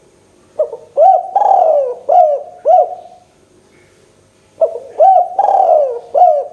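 Spotted dove (tekukur) cooing: two loud phrases about four seconds apart, each a run of about five arched coo notes.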